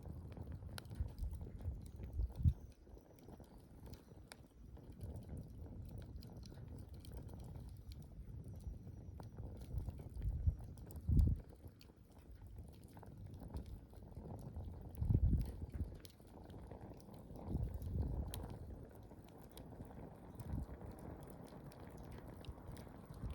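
Wood campfire burning, with scattered small crackles and pops over low, uneven surges of flame; the strongest surges come about 2.5, 11, 15 and 18 seconds in.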